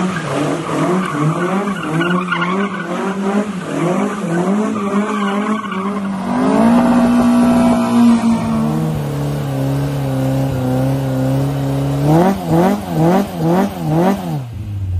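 Ford Escort Mk2 RS2000's engine revving hard through a burnout, its rear tyres spinning and squealing. The revs swing up and down at first, hang steady for several seconds in the middle, then jump in quick blips, two or three a second, near the end.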